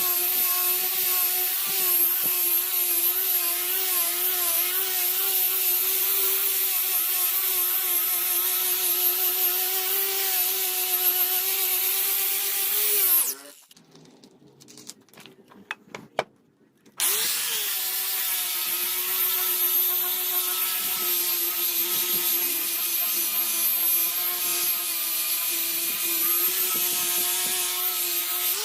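A power tool's motor running steadily with a whine that wavers slightly, as if under changing load. It cuts out for a few seconds about halfway through, then runs again.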